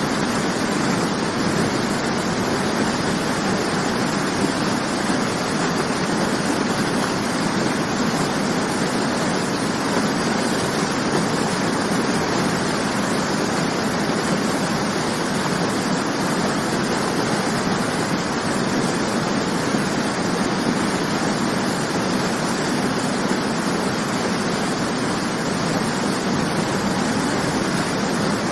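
Waterfall: water falling and splashing in a steady, even rush with no changes.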